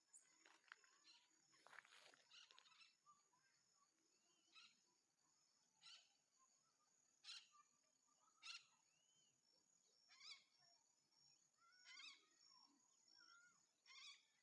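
Faint nature ambience: a bird repeats a short call about every one to two seconds over a steady high insect trill, with other birds chirping.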